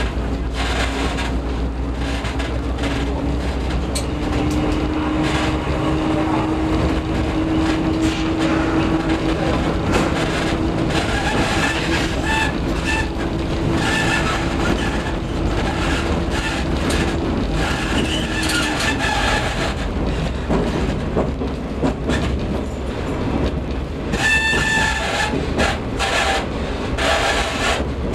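Diesel railcar under way, its engine note stepping up about four seconds in and dropping away after about eighteen, with the wheels clicking over rail joints and points. Short high squeals from the wheels come and go, most often near the end.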